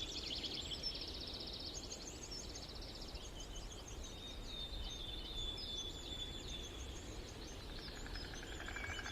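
Several small birds chirping and trilling together, with short high chirps and fast rattling trills overlapping throughout, over a low steady outdoor rumble.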